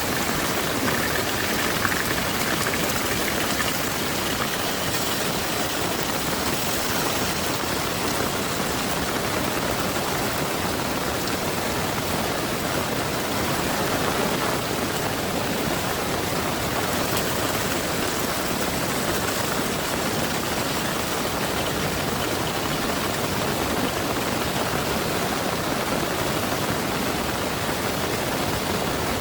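Heavy rain pouring down steadily, a dense even hiss with no breaks or thunder claps.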